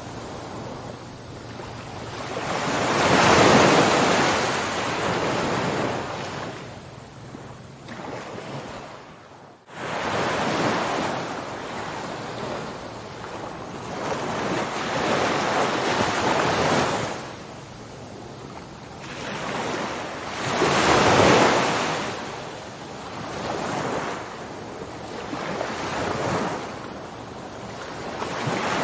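Ocean waves breaking and washing ashore, the surf swelling and fading every several seconds, with a brief dropout a little under ten seconds in.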